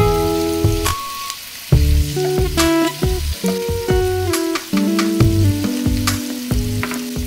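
Background music of held notes changing pitch, over chicken pieces and sliced onions sizzling in oil in a non-stick pot, with a wooden spatula clicking against the pot while stirring.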